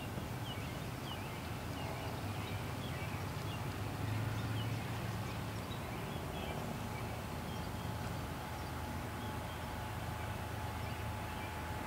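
Small birds chirping in short calls, mostly in the first few seconds, over a steady low rumble.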